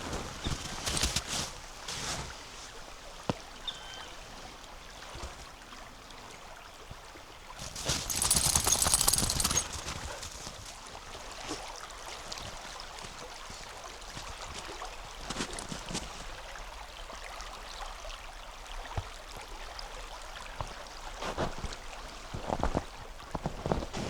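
Footsteps crunching on compacted snow at the start and again near the end, over the steady faint rush of a flowing river. About eight seconds in comes a louder, hissy rustle lasting around two seconds.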